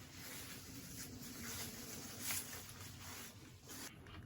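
Faint eating sounds: soft chewing and mouth clicks, a few short clicky bits standing out, the clearest about two seconds in.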